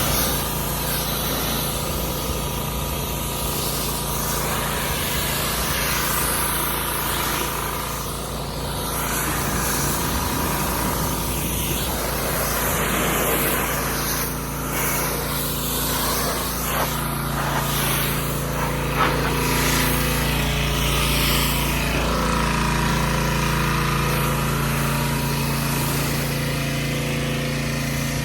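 An engine running steadily, its low hum overlaid by a wide, even hiss.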